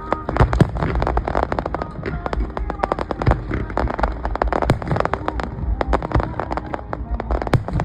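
Fireworks going off in quick, irregular succession: a dense run of bangs and crackles, with music faintly underneath.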